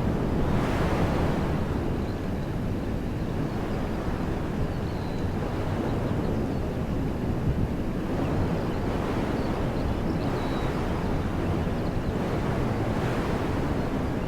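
Wind blowing through woodland trees in gusts over a steady low rumble of wind on the microphone. Gusts swell about half a second in, again around nine seconds and near thirteen seconds.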